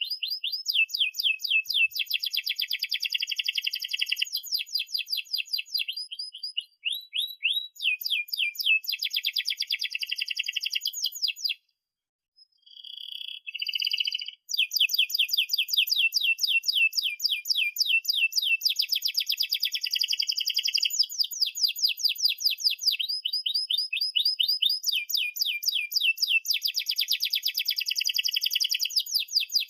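Domestic canary singing long, fast rolling trills of rapidly repeated high notes, changing from phrase to phrase. About twelve seconds in, the song stops briefly and a short lower phrase follows before the rapid trills resume.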